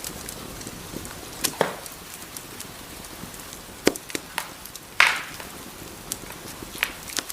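Wood fire crackling in a fireplace: irregular sharp pops and snaps over a soft steady hiss, the loudest pop about five seconds in.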